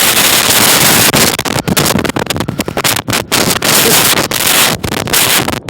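Blizzard wind rushing over the microphone, a loud rough noise with several brief dropouts.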